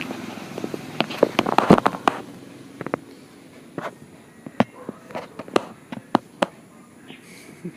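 A cat's paws tapping and scraping at an iPad's glass screen: a quick flurry of taps about one to two seconds in, then single sharp taps spread out over the next few seconds.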